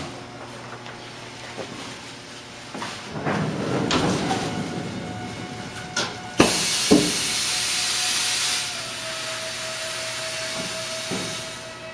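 Heat transfer press for dye sublimation closing under pneumatic pressure: papers rustling, then a couple of clunks and a sudden loud hiss of air, which settles to a quieter steady hiss as the press holds 7 bar of pressure.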